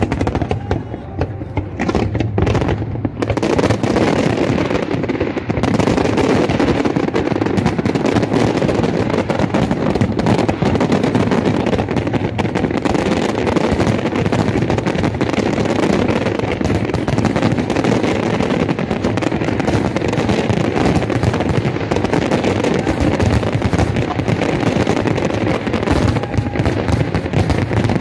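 Fireworks display: a dense, continuous barrage of rapid bangs and crackling, building over the first few seconds.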